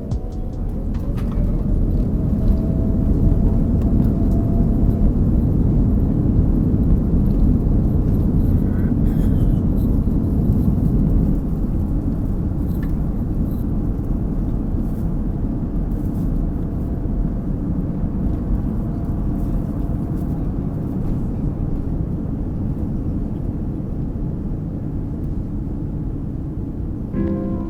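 Boeing 787 takeoff heard from inside the economy cabin. The engines spool up with a whine rising in pitch over the first few seconds, then a steady loud rumble runs through the takeoff roll and climb, easing slightly about eleven seconds in.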